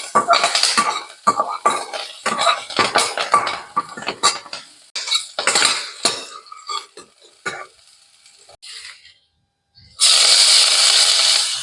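Metal spoon scraping and clinking against a metal cooking pan in quick, irregular strokes. After a brief quiet gap, a sudden loud, steady rushing noise starts about ten seconds in.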